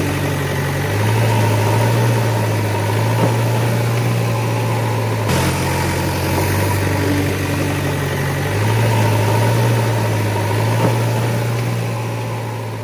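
Engine idling sound effect: a steady low rumble, looped with an audible seam about five seconds in, and fading out near the end.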